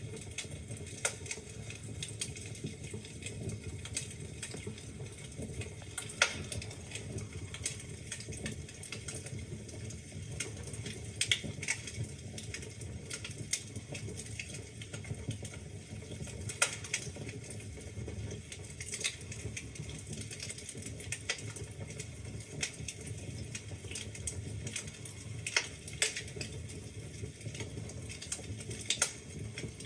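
Wood fire crackling in a fireplace: steady low rumble of burning logs with frequent irregular snaps and pops, a few noticeably louder than the rest.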